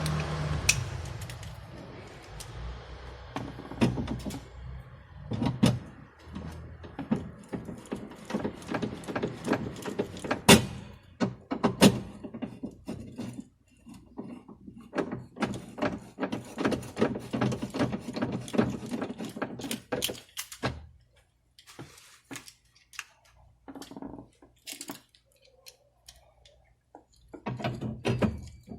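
Irregular clicks, knocks and light rattles of hand work on a car door's lock mechanism and door parts, with quieter pauses in between.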